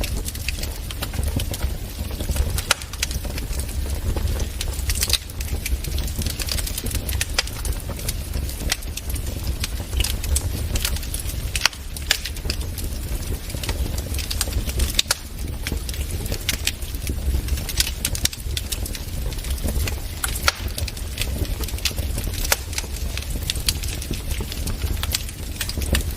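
Wood fire crackling: irregular sharp snaps over a steady low rumble.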